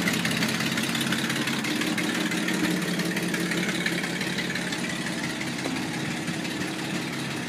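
1956 Chevy panel truck's inline-six engine idling steadily.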